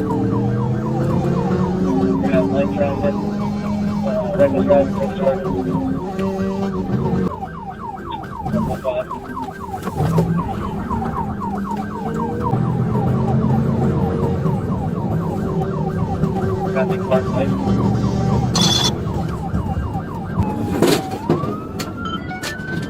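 Police car siren on a rapid yelp, sweeping up and down many times a second, over a patrol car engine running hard and shifting through the revs during a pursuit. Near the end the siren changes to a slow rising and falling wail.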